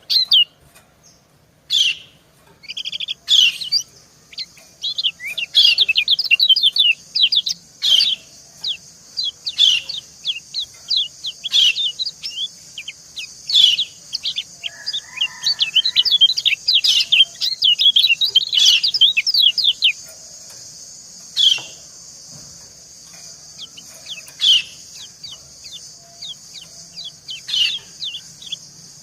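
Yellow white-eyes (kecial kuning) calling: quick series of short, high, downward-slurred 'ciak' chirps, a female calling back and forth with a male. A steady high hiss runs under the calls until about two-thirds of the way through, then stops.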